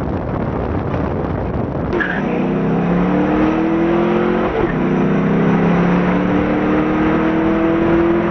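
Twin-turbo Camaro SS V8 accelerating hard. After about two seconds of heavy engine and road rumble, the engine note climbs steadily, drops with an upshift about halfway through, and climbs again through the next gear.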